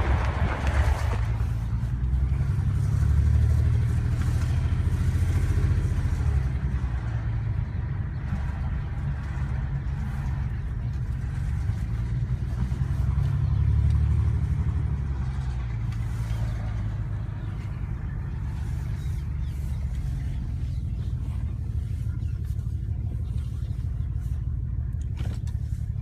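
BMW 335i's turbocharged straight-six running with a deep, uneven rumble that swells twice. The owner takes it for a misfire, possibly a failing coil pack or fuel injector.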